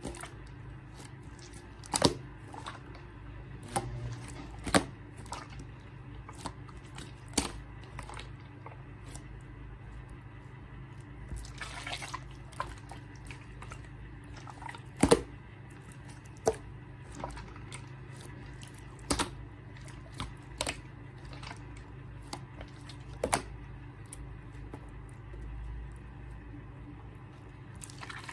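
Colourless clear slime being pressed and stretched by hand, giving irregular wet clicks and pops every second or so, the loudest about halfway through. A faint steady low hum runs underneath.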